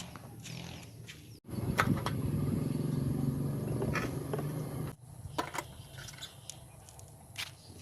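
Small motorcycle engine running steadily, louder for a few seconds in the middle, where it starts and stops abruptly.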